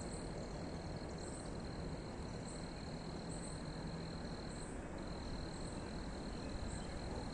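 Insects chirping: a steady high trill that breaks off briefly about halfway through, with a short, higher chirp repeating about once a second.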